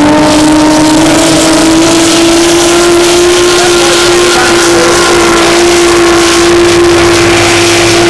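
Race powerboat engine running hard at a steady high note, its pitch edging up slightly over the first few seconds as the boat runs the course.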